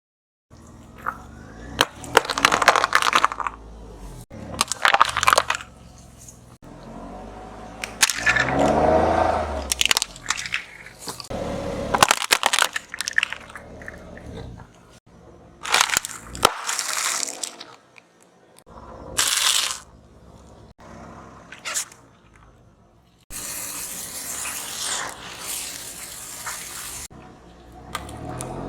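Crunching and cracking of objects being crushed under a car's tyres, in a series of separate bursts.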